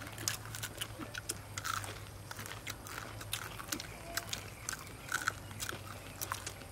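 Several people chewing rice eaten by hand, with irregular soft mouth clicks and lip smacks. A faint steady low hum lies underneath.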